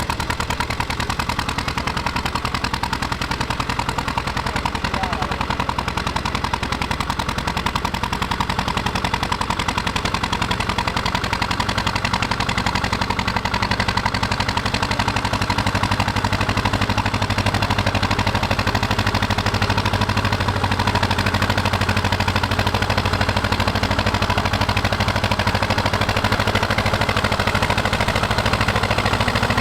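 Tractor engine running with a rapid, even beat of exhaust pulses, growing a little louder about twelve seconds in.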